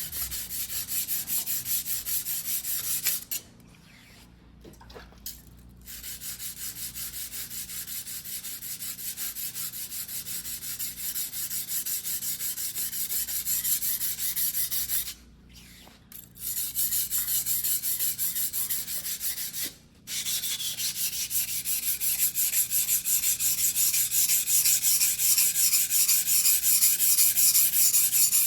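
Single-bevel white-steel fuguhiki sashimi knife being hand-sharpened on a whetstone: rapid, even back-and-forth grinding strokes of steel on wet stone. The strokes pause three times, briefly, and grow louder near the end.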